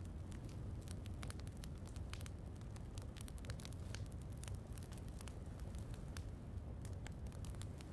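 Wood fire crackling in a fireplace: many small, sharp pops at irregular intervals over a steady low rumble.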